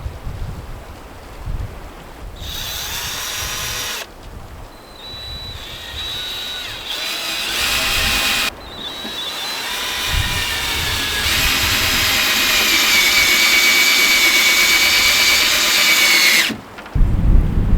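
Power drill running in three bursts, a short one, a longer one and a last long run of about seven seconds, its motor whine rising in pitch as it spins up each time.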